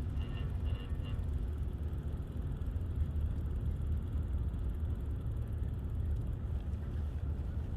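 Steady low rumble of wind buffeting the microphone on a moving bicycle, with a few short high chirps in the first second.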